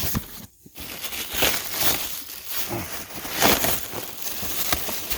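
Crinkling and rustling of something being handled, with scattered light knocks.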